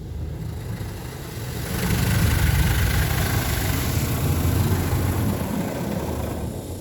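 PDQ Laserwash G5 touch-free car wash running, a deep machine hum under a hiss of spraying water. It swells about two seconds in, holds, and fades near the end, as the moving spray arm comes close and then draws away.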